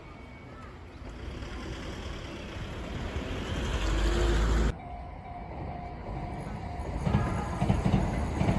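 An electric train's noise swells as it approaches, then cuts off suddenly about halfway through; the noise builds again near the end.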